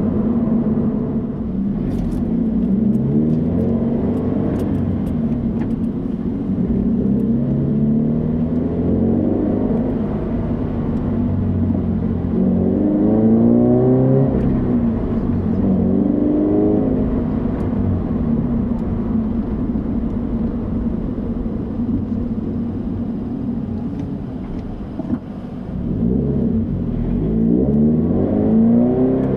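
Flat-four engine of a BRZ/FR-S/GT86 heard from inside the cabin with the windows up, through a Borla 11839 axle-back exhaust, while driving. Its pitch rises several times as the car accelerates and falls back between pulls, with a brief lull near the end before it picks up again.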